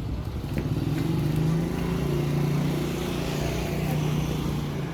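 A motor vehicle's engine running, getting louder about half a second in and holding a steady low pitch, over street noise.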